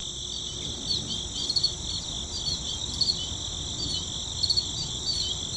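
Steady chorus of crickets shrilling, with short chirps in quick clusters every second or so over the continuous trill.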